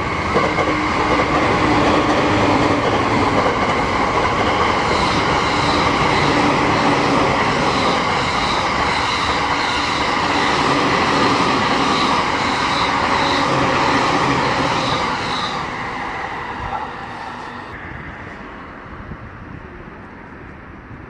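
Electric commuter trains passing beneath: a steady rumble of steel wheels on rail with a motor whine and a regular clacking of wheels that goes on for about ten seconds. Near the end the sound dies away as the last train leaves.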